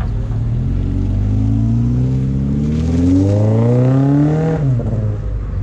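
A car engine accelerating hard, its pitch climbing steadily for about four seconds, then dropping away abruptly near the end as the throttle is released.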